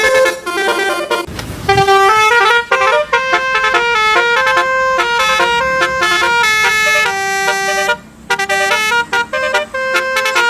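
Multi-tone telolet basuri bus horn playing a tune: a quick run of horn notes stepping up and down in pitch. A brief burst of hiss comes about a second and a half in, and the notes break off for a moment about two seconds before the end.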